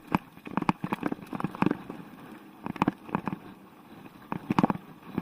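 Mountain bike clattering over a rough trail, with irregular sharp knocks and rattles from the bike and its camera mount, some in quick clusters.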